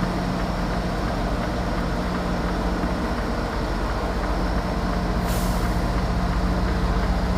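Semi truck's diesel engine running steadily at low speed, with a short hiss of air from the air brakes about five seconds in.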